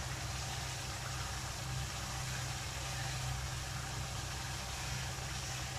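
Beef masala frying on high flame in a kadai: a steady sizzle over a steady low hum.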